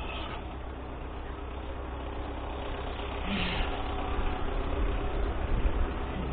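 Diesel engine running steadily, growing somewhat louder in the second half.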